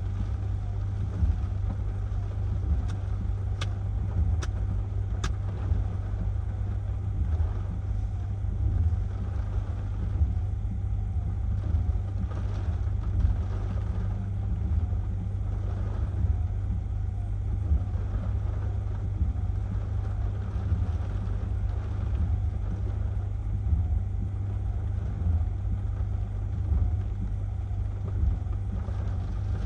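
Strong hurricane wind buffeting the microphone: a heavy, steady low rumble that surges unevenly in gusts, with a few faint clicks about four seconds in.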